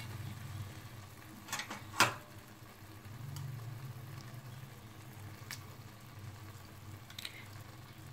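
Thick masala paste with peas sizzling gently in a wok, over a steady low hum. There are two sharp taps about a second and a half to two seconds in, and a few faint ticks later.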